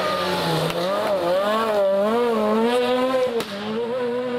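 Rally car engine on a gravel stage, its revs dipping and rising through the corners, then holding high and steady, with a sharp crack about three and a half seconds in.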